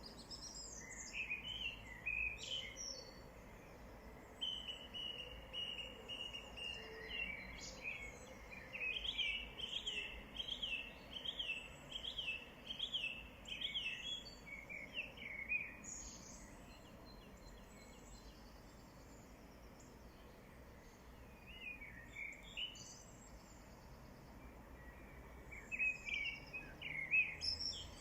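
Wild birds singing: chirping phrases with a run of quick repeated notes in the middle, a quieter stretch, then more song near the end, over a faint steady outdoor background.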